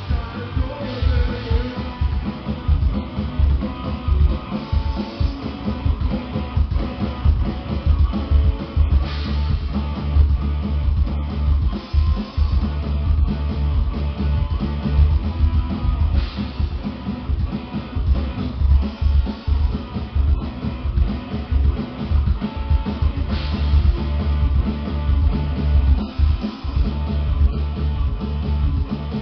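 Rock band playing live: guitar, bass guitar and drum kit, with a heavy low end.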